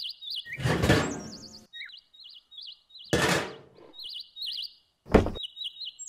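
Small birds chirping in short repeated trills, with two loud rushing noise swells and a sharp thump about five seconds in.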